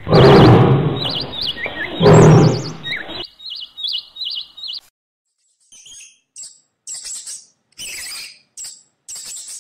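Bird chirping in short, quick high calls. For the first three seconds the calls ride over a loud rushing noise that surges twice, then come alone as a string of brief, evenly spaced chirps.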